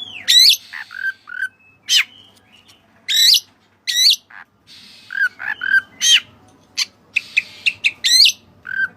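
Oriental magpie-robin (kacer) singing: a varied string of short, loud whistled notes and phrases, some sweeping quickly up and down in pitch, others lower and repeated, with brief pauses between.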